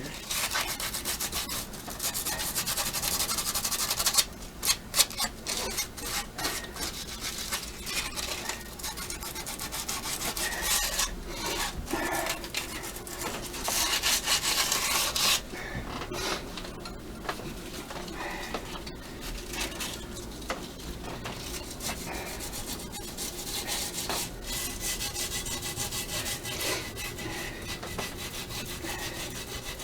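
Sandpaper rubbed by hand over an intake manifold's gasket surface in quick back-and-forth strokes, taking off stuck gasket residue and a sharp casting edge. A few sharp knocks stand out about four to five seconds in.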